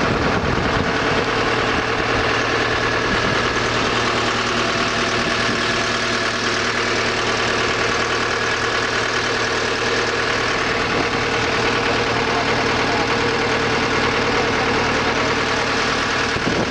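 A tourist launch's engine running steadily, an even drone with no change in pitch.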